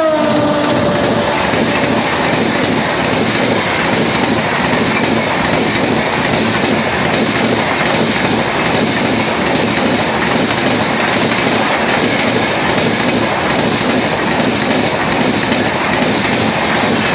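An express train passing close at full speed: the tail of the WAP-7 electric locomotive's horn drops in pitch as it goes by during the first second, then a steady, loud rush of the coaches with wheels clattering over the rail joints.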